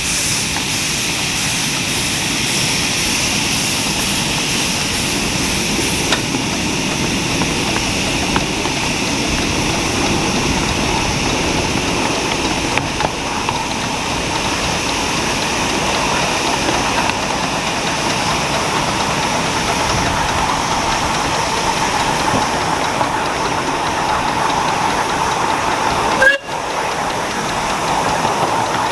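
Miniature railway train running, a steady mix of running noise and steam hiss, with a quick regular beat for the first six seconds. A single sudden knock about 26 seconds in.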